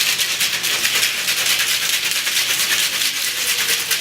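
Ice rattling inside a cocktail shaker as the drink is shaken hard, a fast steady shaking rhythm.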